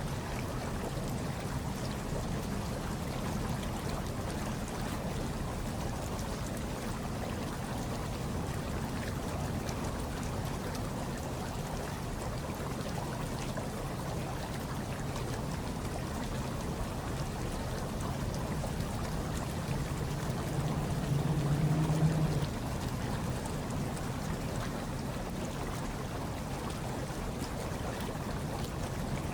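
Hot tub water churning and bubbling steadily, a low, even rush of water. About two-thirds of the way through, a low hum swells for about two seconds and then cuts off abruptly.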